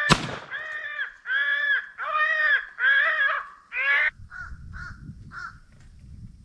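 A single shotgun shot right at the start, followed by a run of five loud, evenly spaced crow caws. Three shorter, fainter caws follow near the middle.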